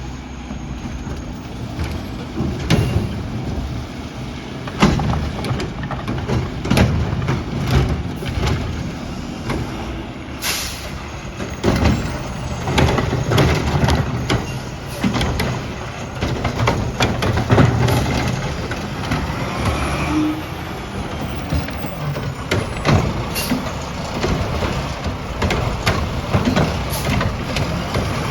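Garbage truck at work: its diesel engine running under many irregular knocks and clanks, with a short air hiss about ten seconds in.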